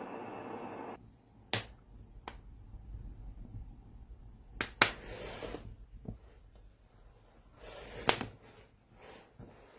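A steady noise cuts off about a second in, followed by a few sharp, isolated knocks: one, then another, a quick pair, and a last one near the end.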